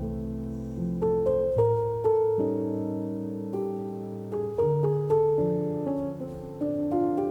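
Background music: slow, soft solo piano, chords struck every second or so and left to ring out.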